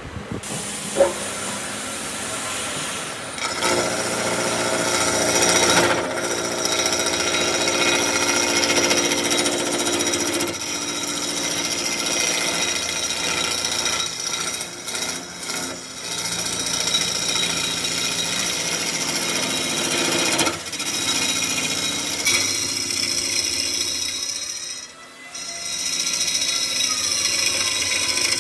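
Handheld electric power tool running on wood, with a steady motor whine. The sound dips briefly a few times in the second half and drops out for a moment near the end.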